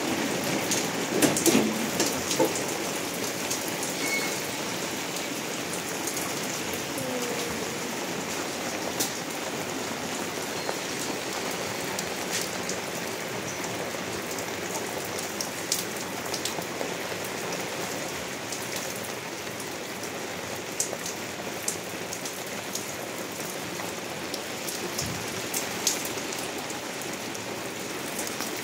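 Steady rain on the hut's roof, with many scattered sharp drips as water leaks through the roof. A few louder knocks come in the first couple of seconds.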